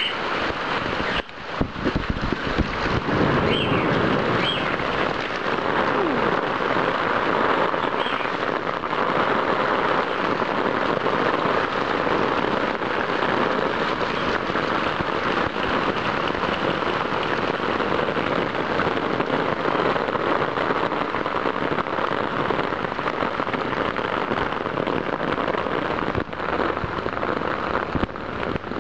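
Heavy rain, heard through the plastic waterproof bag the camera is sealed in: a steady, dense patter of drops striking close by on plastic.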